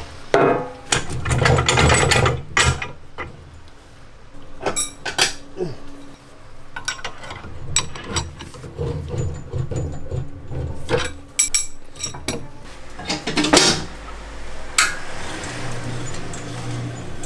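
Irregular mechanical clicking, clattering and metal knocks from a ppeongtwigi puffed-grain machine being worked, with a louder knock about thirteen seconds in.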